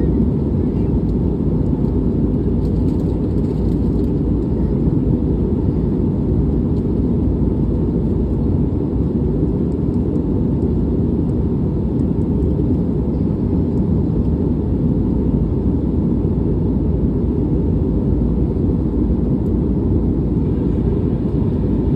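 Steady low rumble and rush of airliner cabin noise in flight: engine and airflow noise heard from inside the cabin, unchanging throughout.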